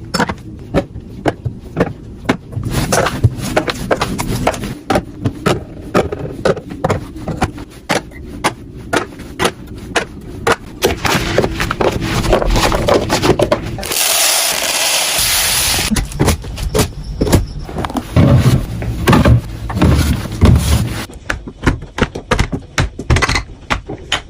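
Fridge restocking: containers and packaging being handled, opened and set down, making many irregular clicks, knocks and scrapes, with a steady hiss lasting about two seconds a little past the middle.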